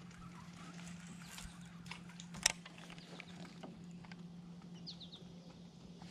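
Faint outdoor quiet with a steady low hum, scattered small clicks, one sharp click about two and a half seconds in, and a bird giving three quick falling chirps about five seconds in.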